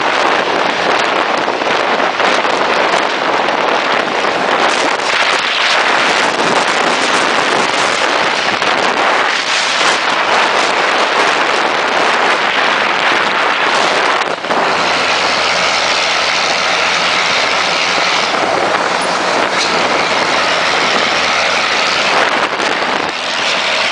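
Loud vehicle engine and exhaust noise inside a road tunnel, with a dense, steady rush of noise; about midway a steady engine note with several pitches comes in over it.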